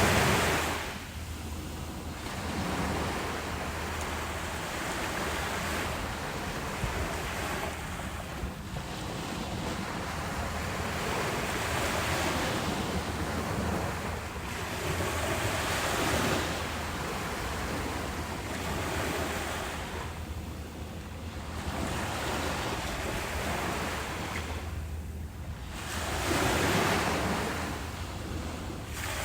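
Ocean waves breaking on a beach, the surf swelling and easing every few seconds, with a stronger surge near the end. Wind buffets the microphone throughout.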